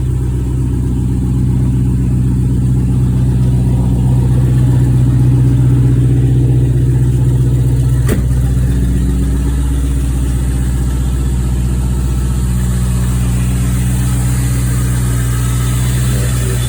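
2004 Pontiac GTO's 5.7-litre LS1 V8 idling steadily after a cold start, with an exhaust leak where exhaust manifold bolts have broken off, a leak the owner says usually gives a ticking sound but not a bad one. A single sharp click about eight seconds in.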